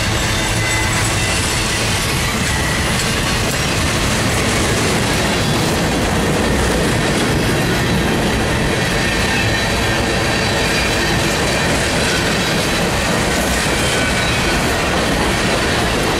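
Freight train cars rolling past close by: a steady, loud rumble and clatter of steel wheels on the rails. Thin, high squealing from the wheels comes through at times.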